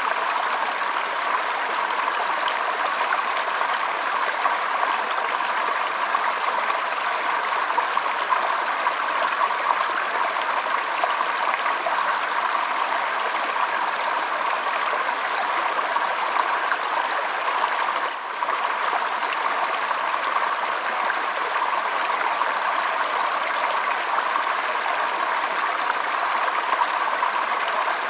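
Running water of a stream flowing and trickling steadily, with one brief dip in level about two-thirds of the way through.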